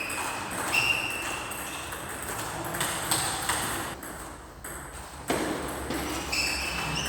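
Rubber-soled sports shoes squeaking on an indoor court floor, short high squeaks at the start and again near the end, with a few sharp knocks in between.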